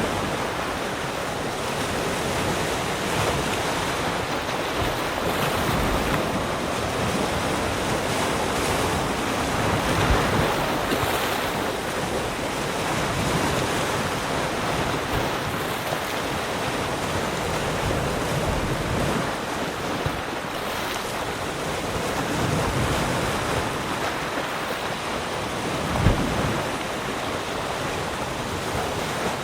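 Ocean surf: waves breaking and washing in continuously, the noise swelling and easing slowly. A brief low thump comes near the end.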